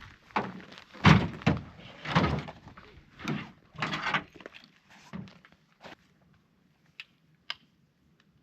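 A series of irregular thuds mixed with crunchy rustling, loudest in the first half, then a few faint sharp clicks near the end.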